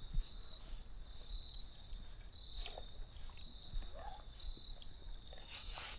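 A steady, high, thin insect drone, swelling and fading, over quiet creekside ambience with scattered small clicks and knocks.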